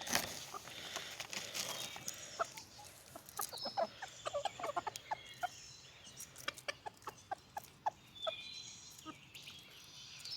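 Backyard chickens clucking in short, scattered calls, mixed with many small clicks and ticks, while they gather to be fed treats. A brief loud rush of noise right at the start.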